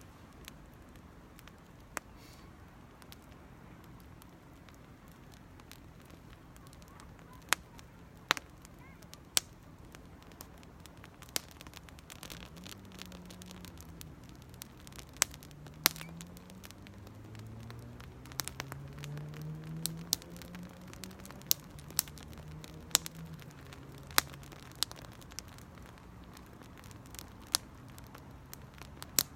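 Small campfire lit with dry cedar leaves, crackling steadily with sharp, irregular pops. A faint low drone rises and falls in pitch in the background through the middle.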